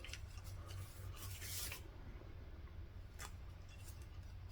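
Faint handling noises from a freshly removed piston wrist pin being turned over and inspected by hand: light rubbing with a short scrape about a second in and a single click about three seconds in, over a low steady hum.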